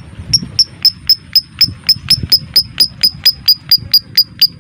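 Lovebird giving its 'ngetik' call: an even run of short, sharp, high chirps, about four a second.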